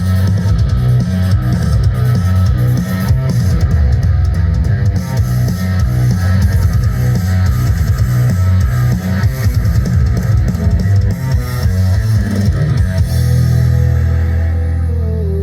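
Loud rock music with guitar, drum kit and heavy bass played through a parade sound system, ending on a long held bass note.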